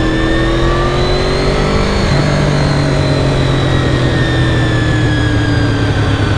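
Honda VFR750 V4 motorcycle engine under way, rising in pitch as it accelerates, then dropping suddenly about two seconds in at a gear change and easing slowly lower, with a steady rush of wind noise.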